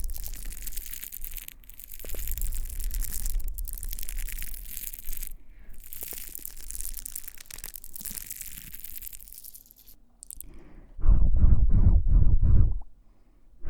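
Scratching and rubbing close against the ears of a KU100 binaural dummy-head microphone, uneven and hissy. About eleven seconds in it gives way to a quick run of loud, muffled thumps, about three a second, that stops shortly before the end.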